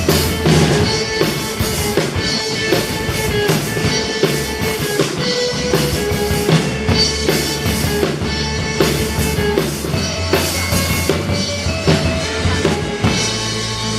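Live band music: a drum kit keeping a steady beat with bass drum and snare hits under sustained melody notes.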